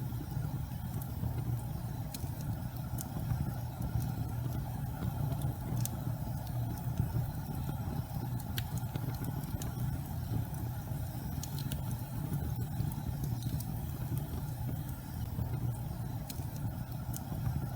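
Gas fireplace flames burning with a steady low roar, with sparse faint crackles and ticks scattered through it.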